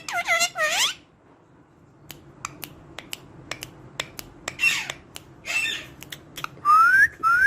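Pet parrot making short squawking calls that bend in pitch at the start, then a run of sharp clicks and a few rough chirps. Three quick rising whistles come near the end.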